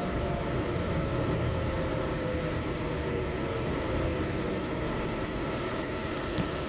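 Yurikamome rubber-tyred automated train running, heard from inside the car: a steady rumble with a faint whine that slowly falls in pitch, and a couple of small clicks near the end.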